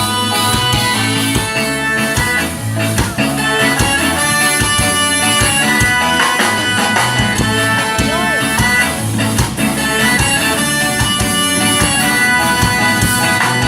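Ska band playing an instrumental passage with a drum kit keeping a steady beat.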